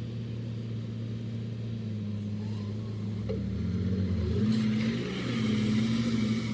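Heavy diesel engine of earthmoving machinery running. About halfway through its pitch steps up, and it revs higher and louder twice near the end.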